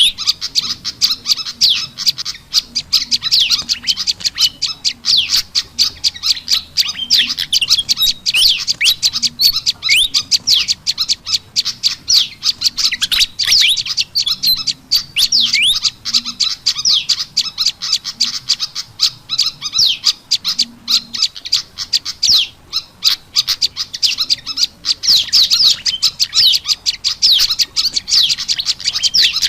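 Bird-lure recording of prenjak lumut calls mixed with agitated fantail (kipasan) chatter: a dense, unbroken run of rapid high chirps and short trills.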